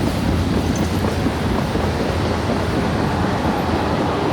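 Mixed freight train rolling past on the rails: a steady rumble and rattle of wheels.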